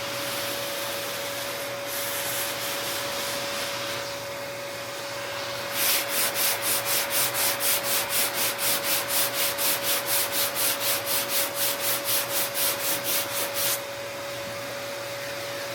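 Hand sanding block rubbed over body filler on a car fender: a softer stretch of rubbing, then brisk back-and-forth strokes, about three or four a second, that stop abruptly near the end.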